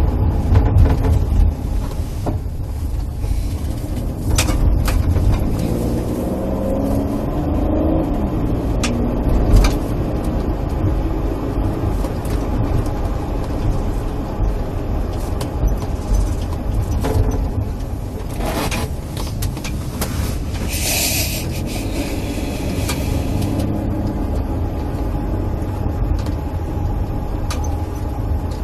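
Engine hum and road rumble inside a moving police patrol car, with a brief hiss about two-thirds of the way through.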